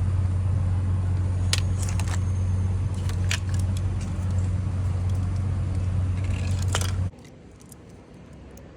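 Metal window-regulator parts being handled, giving a few sharp clicks and rattles over a steady low hum that cuts off suddenly about seven seconds in.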